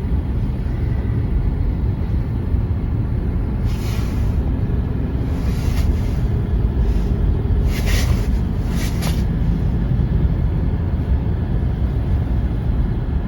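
A snow brush sweeping snow off a car in about four short hissing strokes, over a steady low rumble.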